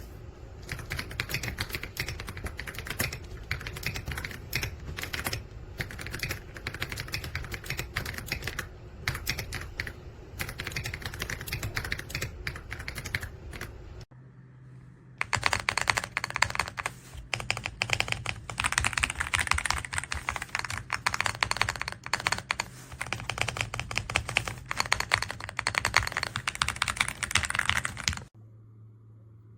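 Fast typing on an AULA F99 mechanical keyboard: dense, continuous keystroke clacking. There is a cut about halfway through, after which the keystrokes sound brighter over a steady low hum. The typing stops shortly before the end, leaving only the hum.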